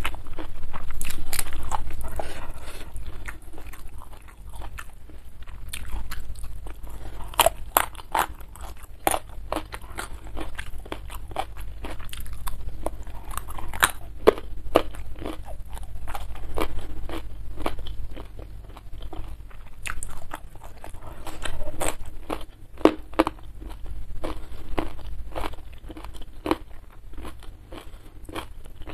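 Close-miked eating sounds: a person chewing with wet mouth noises and frequent sharp crunchy bites into raw vegetables and rice, the crunches coming in clusters.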